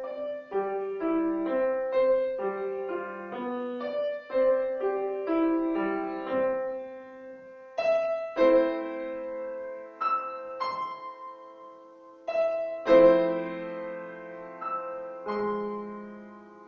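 Solo piano played by a young music-school pupil: a steady run of notes, changing about halfway through to slower chords, each struck and left to ring, dying away near the end.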